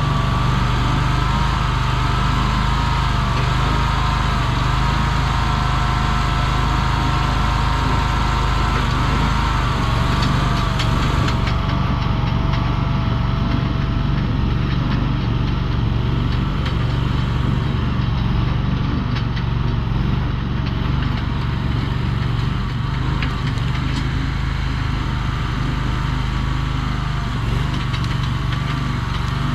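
Mini skid steer's engine running steadily, with a wavering whine above the engine hum.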